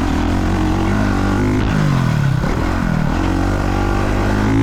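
Dirt bike engine being ridden hard on a motocross track: the revs climb and drop again about three times, with the throttle on and off between jumps.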